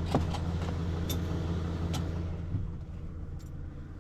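Vehicle engine idling with a steady low hum, with a few light clicks over it; the hum eases off slightly about two and a half seconds in.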